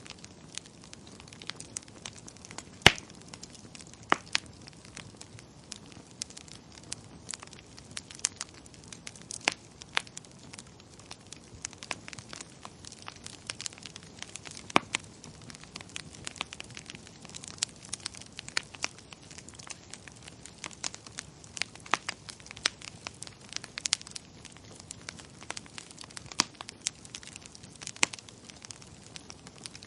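Wood fire crackling in a fireplace: irregular sharp pops and snaps over a low steady hiss, with the loudest pop about three seconds in.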